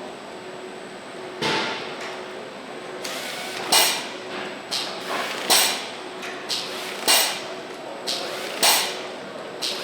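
Assembly-line machinery in an engine plant: sharp metallic clanks repeating about every one and a half seconds, with weaker knocks between, over a steady machine hum.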